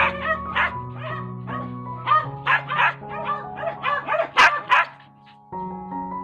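A dog yipping and barking in quick short calls, several a second, over background music of held notes. The sharpest call comes about four seconds in, followed by a brief lull.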